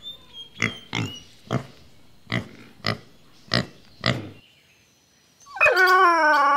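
Domestic pig grunting in short grunts, roughly two a second, for about four seconds. After a brief pause, a louder, long wavering animal cry begins near the end.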